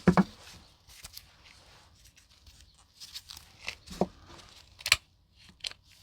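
Irregular rustling and crinkling handling noises with a few sharp knocks, the loudest right at the start and others about four and five seconds in.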